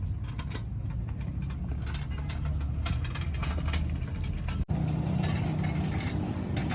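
A motor or engine running steadily with a low hum, overlaid by scattered metallic clicks and taps. About two-thirds through, the sound cuts abruptly and resumes with more hiss and a steadier tone.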